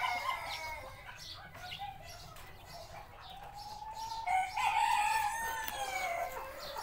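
Cochin rooster crowing: the tail of one crow at the start, then one long crow from about three seconds in that rises and then falls in pitch.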